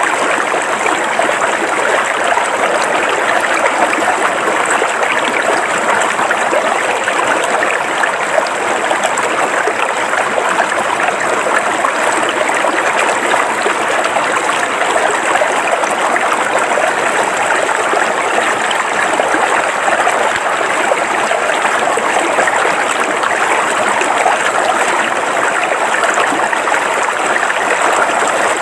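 River water flowing steadily over rocks, an even, unbroken rush and babble of a stream.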